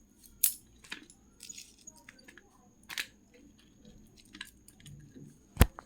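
Crispy fried chicken pakoras being handled and eaten: scattered crunches and sharp clicks, with louder ones about half a second in, about three seconds in, and a sharpest one near the end.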